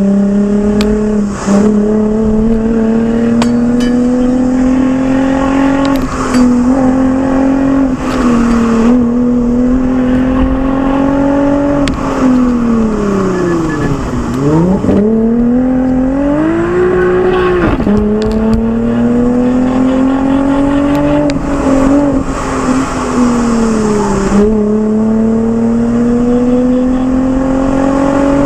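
Lexus IS engine running through an aftermarket Fi exhaust, accelerating hard: the exhaust note climbs steadily in pitch and drops back at each gear change. Near the middle it falls away sharply as the car slows, then climbs again.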